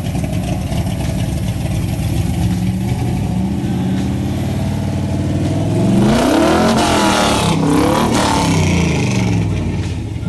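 A car accelerating past. Its engine note climbs through the revs, is loudest as the car goes by, then drops in pitch and fades as it pulls away.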